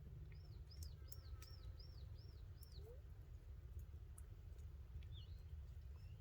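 A bird calling: a quick run of seven arching high notes in the first three seconds, and a shorter call near the end. Beneath it, a faint steady low rumble and scattered faint clicks.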